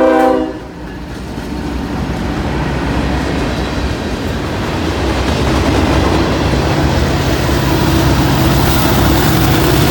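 Diesel freight train's horn cutting off about half a second in, then the train rolling past: locomotive engine rumble and rail car wheel noise building up steadily.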